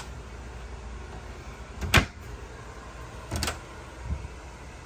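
A few knocks and clunks of storage lids or hatches under salon seating being handled, the loudest about two seconds in and two smaller ones about a second and a half and two seconds later, over a faint steady low hum.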